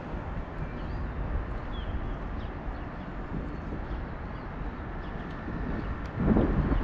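Steady outdoor background rumble with a few faint bird chirps. A louder rumbling swell comes in near the end.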